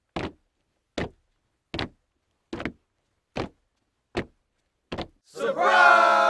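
Evenly spaced single hard taps, about one every 0.8 seconds, eight in all. About five seconds in, a group of people breaks into a loud shout together.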